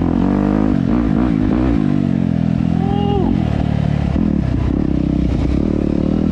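Dirt bike engine running under changing throttle while riding off-road, its pitch rising and falling over and over.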